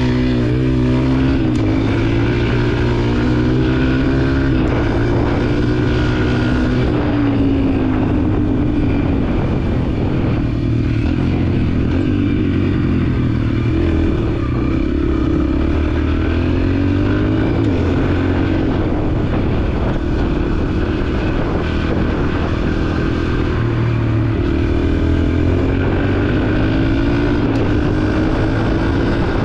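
Yamaha dirt bike engine running under way, its pitch climbing several times as it revs up and dropping back between.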